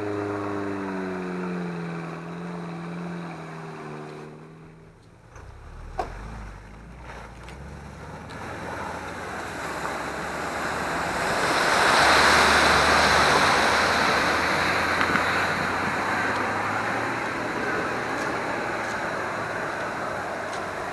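Off-road vehicle's engine note falling in pitch, then a long rushing noise that builds to its loudest about twelve seconds in and carries on, as the vehicle churns through bog mud and water.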